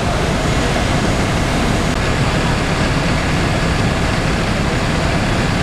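Steady, loud vehicle engine noise with an even hiss over it, running without a break.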